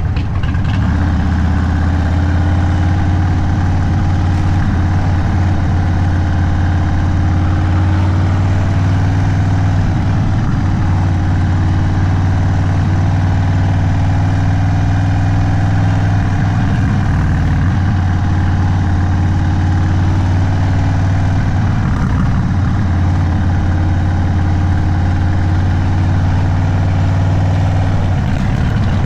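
Indian Sport Chief's Thunderstroke 116 V-twin running steadily at low revs through a Sawicki Speed aftermarket exhaust, loud and deep, with only slight changes in pitch.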